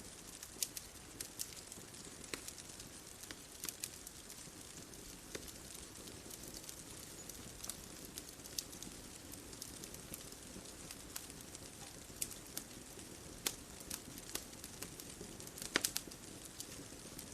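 Bonfire crackling: irregular sharp pops and snaps of burning wood, a few close together near the end, over a soft steady hiss.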